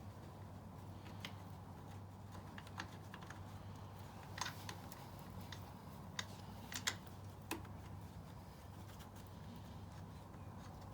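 Scattered light clicks and taps of small metal parts being handled: a brake-line banjo bolt and its washers being fitted. They come irregularly, about half a dozen, with the sharpest just past the middle, over a low steady hum.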